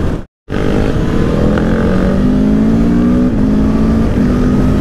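Aprilia Tuono V4 1100 Factory's V4 engine pulling steadily up through the revs under wind rush, with a gear change about three seconds in. The sound cuts out for a moment just after the start.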